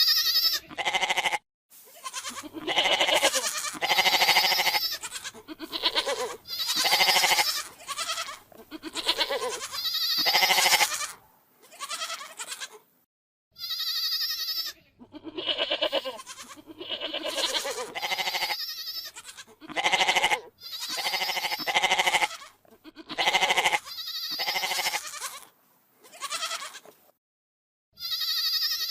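Domestic goat bleating over and over: a long string of separate calls, each about a second long, with short gaps between.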